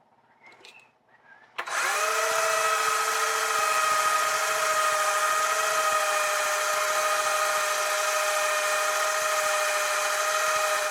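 Small electric power tool motor switched on about a second and a half in, spinning up briefly and then running at a steady whine, after a few faint handling knocks.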